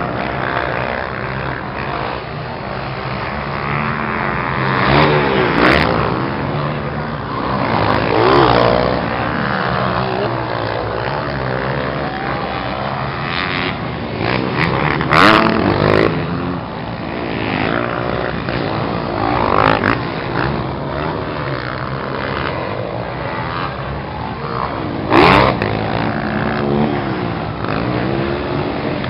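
Motocross dirt bikes racing on a track, their engines revving up and down as they pass. Several rising and falling swells stand out, the loudest about halfway through and near the end.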